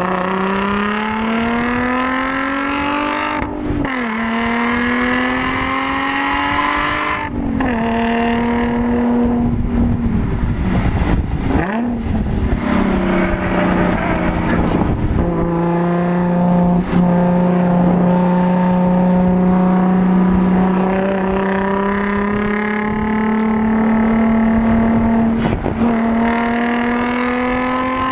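Audi S4's supercharged 3.0-litre V6, through an AWE Touring exhaust, heard from inside the cabin under hard track driving: revs climb and drop sharply at upshifts about 3.5 and 7 seconds in, change irregularly for a couple of seconds around the 10 to 12 second mark, then pull slowly and steadily upward through a long stretch in one gear.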